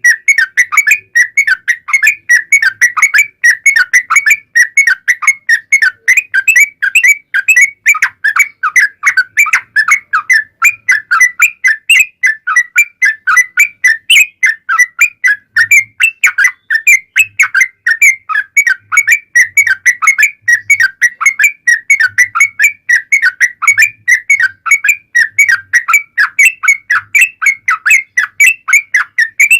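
Yellow-vented bulbul (trucuk) in full song, an unbroken run of quick chirping whistled notes, several a second. It is the kind of long rapid song run played as a lure to make caged bulbuls answer.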